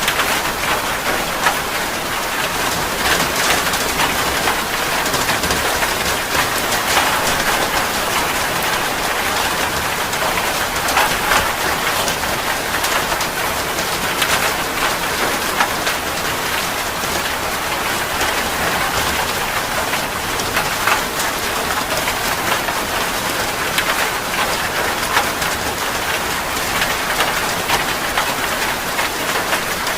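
Steady heavy rain falling on a surface, a dense even patter with many small drop ticks.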